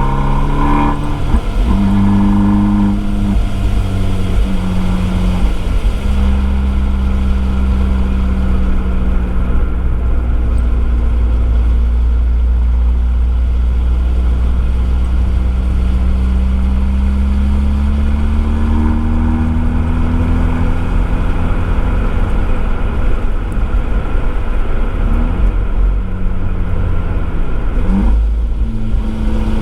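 Abarth 595C Esseesse's turbocharged 1.4-litre four-cylinder through its Akrapovič exhaust, heard from the boot, lapping a wet circuit. The engine note drops sharply about six seconds in as the throttle comes off, sinks slowly for about ten seconds, then climbs again through the revs, with another sharp rise near the end, over a steady deep rumble.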